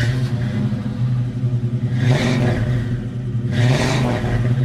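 Car engine running at a fast idle, revved twice: once about two seconds in and again near the end.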